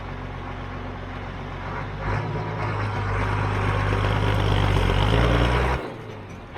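Farm vehicle engine running under way; about two seconds in it is throttled up and grows louder, then drops off abruptly near the end.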